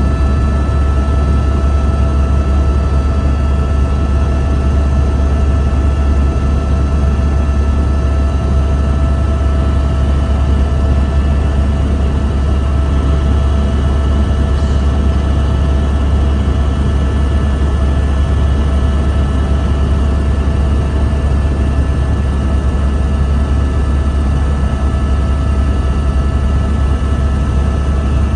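Helicopter in steady flight: a loud, even drone with a deep low rumble and several steady whining tones above it.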